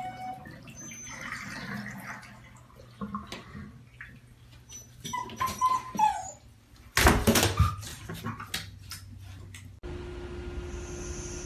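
A dog whimpering in short high whines, the clearest one about five seconds in, held and then dropping in pitch. A burst of loud knocks and clatter follows about seven seconds in.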